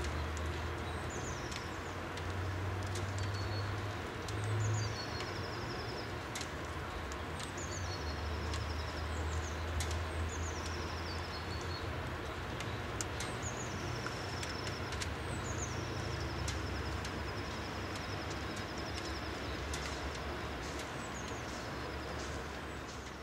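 A small songbird calling over and over: high, short calls that each drop in pitch and end in a brief held note, every second or two. Under them is a steady low rumble.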